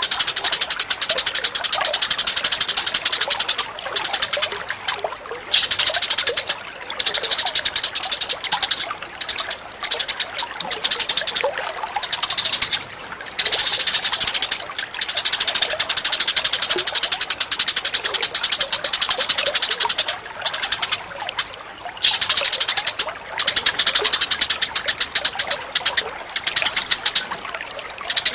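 Songbird training recording: dense, very rapid high-pitched chattering bird calls in long bouts, broken by short pauses every few seconds.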